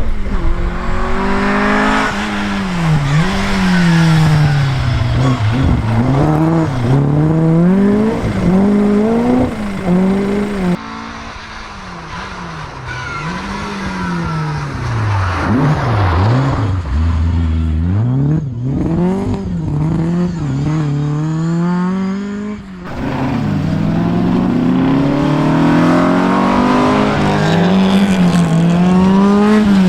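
Historic rally car engines revving hard, their pitch climbing through the gears and dropping on lift-off and downshifts, as cars pass one after another. The sound changes abruptly about eleven seconds in and again a little past halfway.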